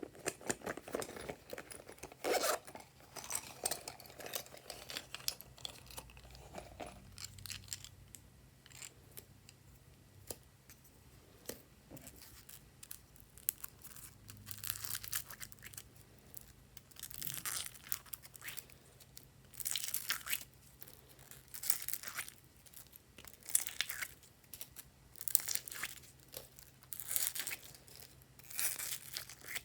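Glossy slime being stretched, pressed and pulled by hand, making repeated bursts of sticky crackling, which come about every second or two in the second half.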